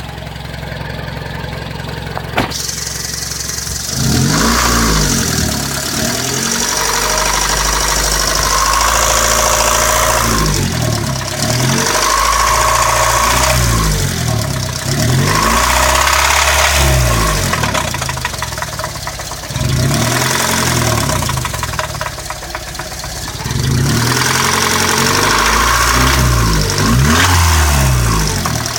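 1998 Honda Civic LX's 1.6-litre four-cylinder engine running and being revved up and let fall back to idle several times, with a sharp click a little over two seconds in. The engine has a ticking noise whose cause the owner is asking about.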